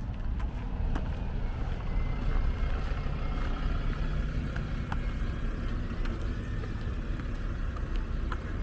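A motor vehicle's engine running close by on the street, its low rumble swelling about a second in.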